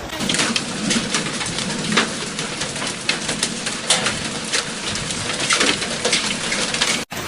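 Hailstones pelting hard surfaces, a dense hiss of impacts with many sharper cracks standing out. It breaks off abruptly near the end.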